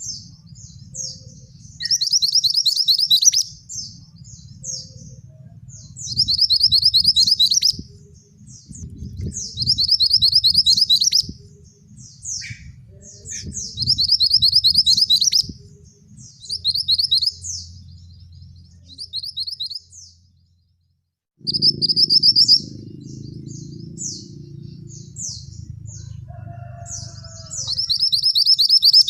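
Male mantenan songbird singing: a high, rapid trilled phrase of about a second and a half, repeated every few seconds, with short chirps between, over a low background rumble.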